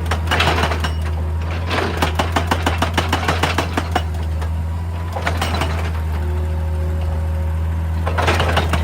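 Excavator working rock: the diesel engine's steady low hum under a hydraulic breaker hammering rapidly, with bursts of crunching rock near the start, about two seconds in and near the end.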